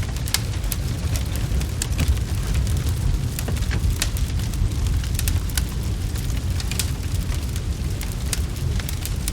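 Crackling wood fire: irregular sharp pops and snaps, several a second at times, over a steady low rumble.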